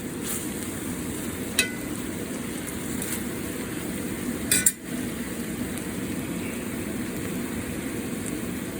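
Marinated chicken pieces sizzling and bubbling steadily in a pan as the last of their juices cook off before the chicken fries in its oil. A metal utensil clinks against the pan once about one and a half seconds in, and again in a quick cluster about halfway through.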